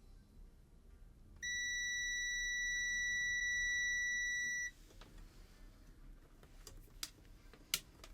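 Multimeter continuity beeper sounding one steady high-pitched beep for about three seconds, then cutting off: the probed resistor reads as a dead short to ground. A few light clicks near the end.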